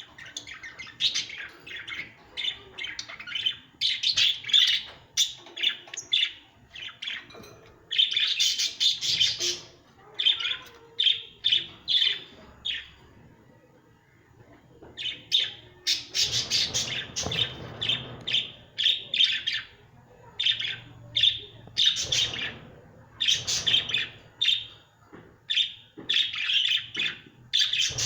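Lovebirds calling: rapid runs of short, sharp chirps and squawks, with a brief lull about halfway through.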